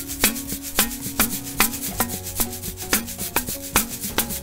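A rhythmic beat played on household objects: a metal tin can tapped on its lid and shaken, and a glass jar of rice. Sharp taps and shaker scrapes come about four or five times a second over a low steady tone.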